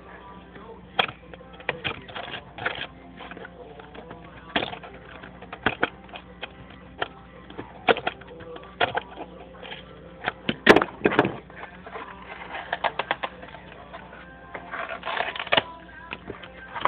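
Irregular sharp clicks and short crackling scrapes of a cardboard box being cut, the bursts densest about two-thirds of the way through and again near the end, over faint background music.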